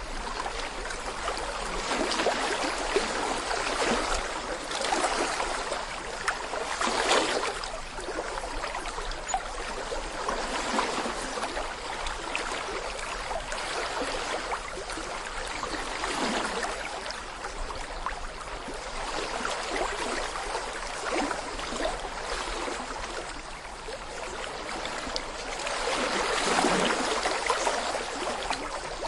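A small babbling brook, clear water burbling and splashing over stones. The flow is steady but rises and falls in gentle surges every several seconds, with its fullest surge near the end.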